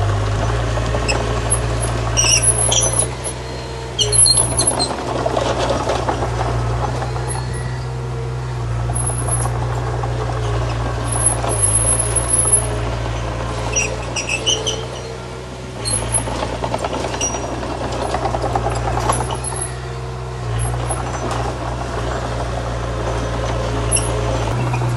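Bulldozer's diesel engine running steadily under load, with a rumble that swells and fades and short high squeaks now and then.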